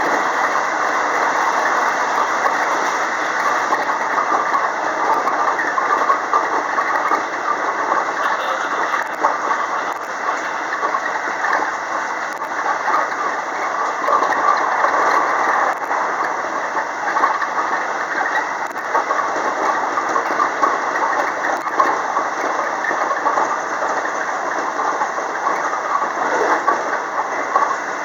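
Steady running noise of a JR West 225 series electric multiple unit heard from inside its lead car: wheels rolling on the rails at speed, with a few faint clicks from the track.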